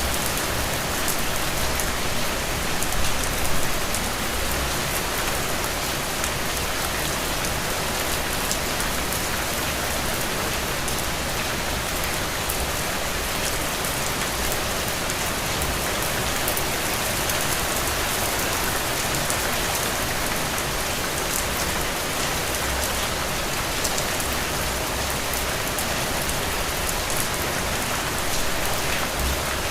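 Heavy rain falling steadily: a dense, even hiss of drops, with single sharp drop hits standing out now and then.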